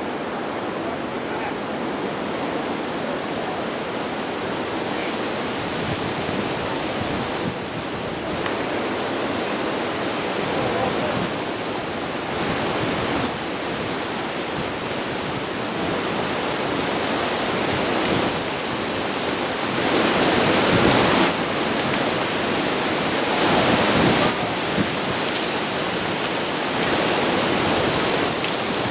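Violent storm wind and heavy rain making a continuous rushing roar, with two louder gusts about two-thirds of the way through. The uploader takes the storm for a microburst.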